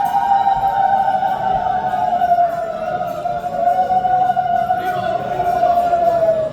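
A conch shell blown in one long unbroken note that sinks slowly in pitch and stops near the end, with temple bells ringing faintly underneath.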